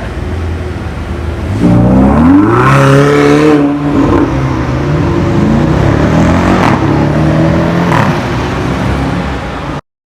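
A sports car's engine accelerating hard, close by. Its pitch climbs steeply about one and a half seconds in, drops sharply at a gear change near the fourth second, then climbs again and holds. The sound cuts off abruptly near the end.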